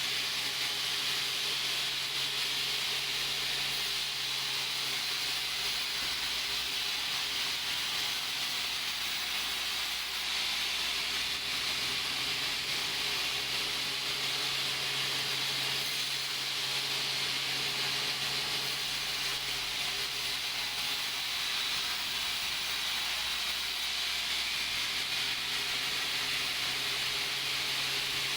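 Sawmill machinery running: a steady hiss over a low motor hum that shifts between two pitches every several seconds.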